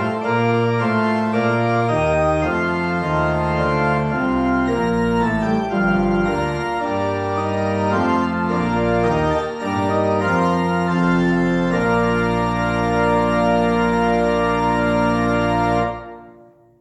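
Organ playing the closing bars of a postlude in sustained chords, ending on one long held final chord that cuts off sharply about a second before the end.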